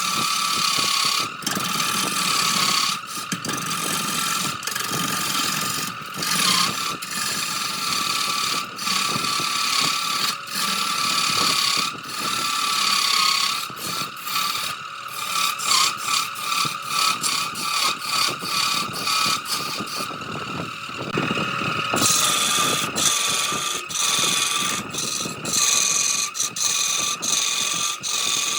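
Wood lathe running with a steady, slightly wavering whine while a turning tool scrapes and cuts the spinning jackfruit wood, with many brief breaks in the cutting.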